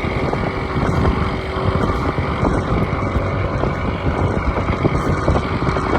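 A small boat's engine running steadily under way, with the rush of water and wind on the microphone.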